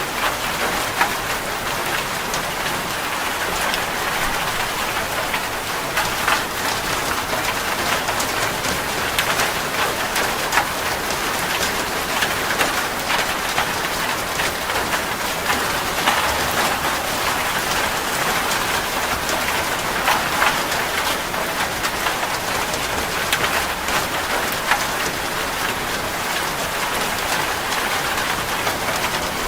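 Steady rain falling on a surface, a dense hiss with many small drop ticks.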